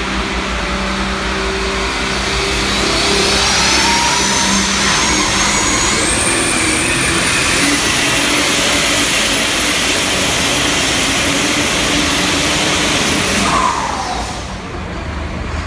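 Pulling tractor's engine running hard at full throttle down the track. A high whine rises over a few seconds and holds steady, then the engine is cut off near the end and its pitch falls away.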